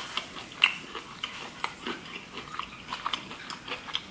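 A person chewing sauced seafood: a scatter of short, wet mouth smacks and clicks.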